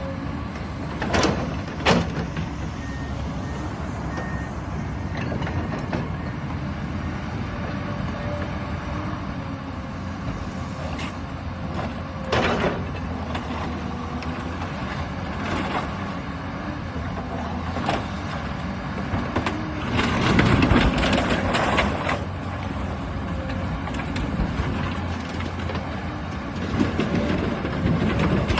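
Heavy demolition machinery running steadily, with intermittent sharp crashes and bangs of breaking structure and falling debris. The longest and loudest crash comes about twenty seconds in.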